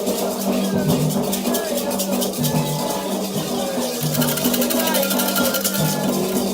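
Candomblé ceremonial music: a rattle shaken in a quick, steady rhythm over low drum tones, with voices singing.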